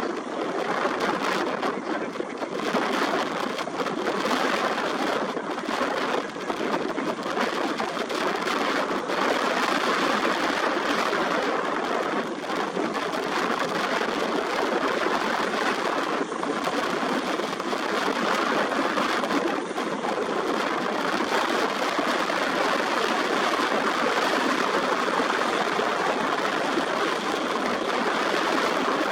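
Airbus H135 helicopter running close by: a steady, even rushing noise from its turbines and rotor.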